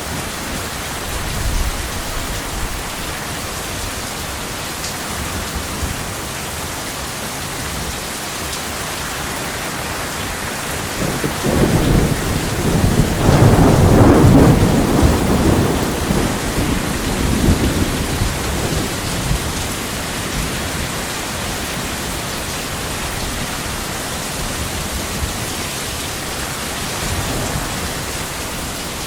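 Steady heavy rain, with a long rolling thunder rumble swelling up about eleven seconds in, loudest a few seconds later, then dying away.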